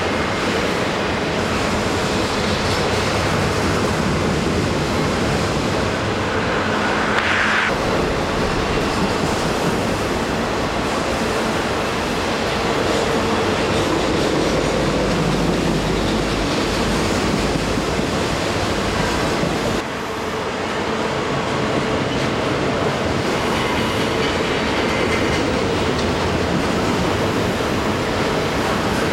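CP Rail container train rolling past: a steady rumble of wheels on rail with clickety-clack, and a brief high wheel squeal about seven seconds in.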